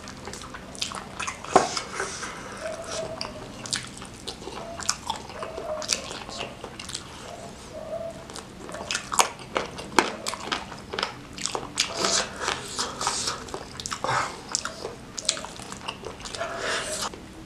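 Close-miked eating of spicy smashed fried chicken (ayam geprek): biting and wet chewing, with lip smacks and many sharp clicks and crackles.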